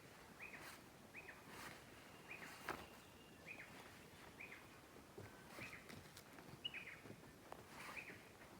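A bird faintly repeating a short, down-hooked chirp, about one to two calls a second, with a few faint clicks.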